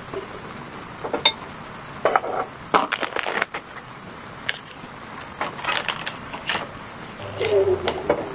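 Irregular crunching in several short clusters, like something brittle being crushed or broken by hand.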